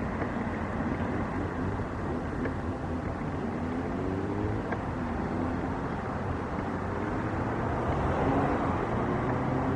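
An engine running over a steady rumble, its pitch rising twice and growing louder toward the end.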